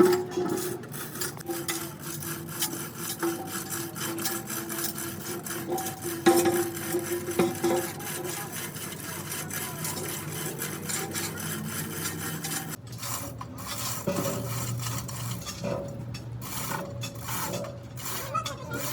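Rapid, repeated rasping strokes of a hand tool scraping or filing a workpiece. The character of the sound changes abruptly about two-thirds of the way through.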